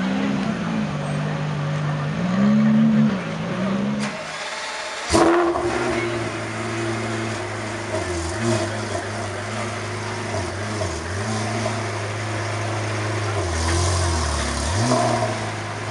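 Aston Martin One-77's V12 engine running as the car rolls slowly, its revs rising and falling. About five seconds in there is a sharp burst, then a Pagani's Mercedes-AMG V12 idles steadily with small changes in revs.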